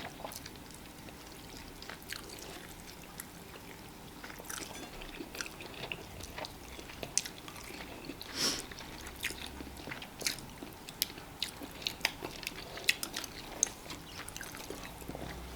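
Close-up eating sounds: chewing and biting on fufu and tilapia fish pepper soup, made of scattered small clicks. They are sparse at first and grow more frequent from about halfway through.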